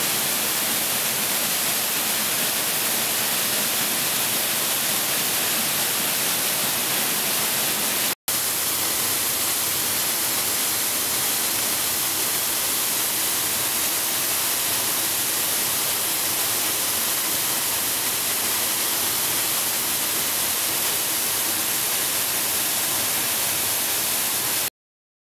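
Waterfall rushing: a steady, even hiss, strongest in the highs, that cuts out for an instant about eight seconds in.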